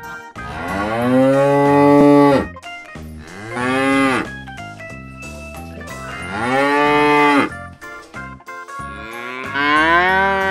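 Cow mooing: four long moos a couple of seconds apart, the second one short, over faint background music.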